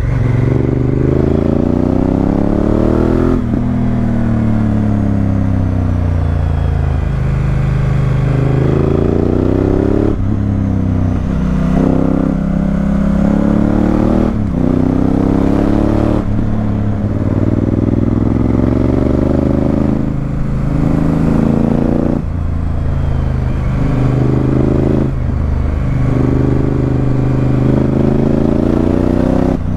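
Honda Africa Twin CRF1000L's 998 cc parallel-twin engine through a Remus aftermarket exhaust, ridden on the road. The engine pitch climbs under acceleration and drops at each gear change, then falls away as the bike slows, several times over.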